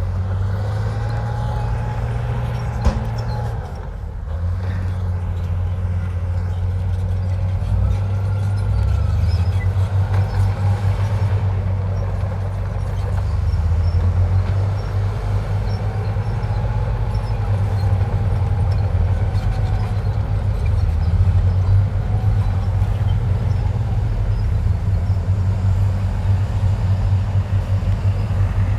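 Komatsu bulldozer's diesel engine working under load, its steady low drone shifting in pitch as the load changes. A fainter whine rises and falls several times, and there is a single sharp click about three seconds in.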